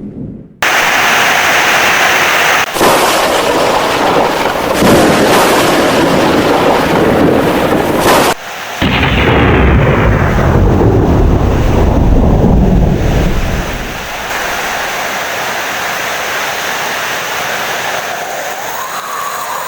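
Heavy rain with loud rolling thunder. The rumble cuts out abruptly about eight seconds in, a second roll fades away a few seconds later, and steady rain is left.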